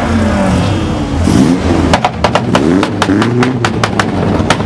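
A car engine revving up and down as it drives past. From about halfway through comes a rapid series of sharp cracks, about six a second.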